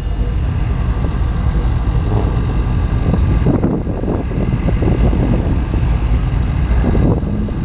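Chevrolet Camaro under way: steady engine and road noise.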